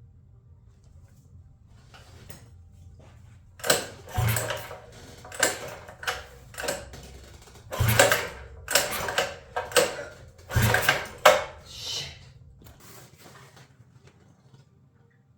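Repeated hard yanks on a minibike's small-engine recoil starter cord, about a dozen pulls in quick runs, three of them with a heavy thump. The engine does not catch; it is very hard to pull and has locked up again.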